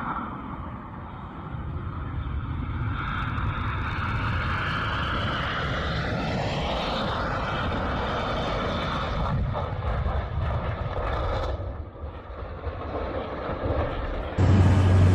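Aircraft engines running as a plane passes on its landing approach: a steady rumble under an engine whine that slides down in pitch partway through. A sudden louder gusty noise takes over near the end.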